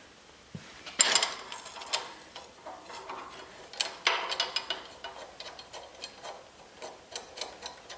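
Metal parts being handled during brake caliper bracket test-fitting: clinks, scrapes and small ticks. The loudest clatters come about a second in and about four seconds in, followed by a run of light ticks.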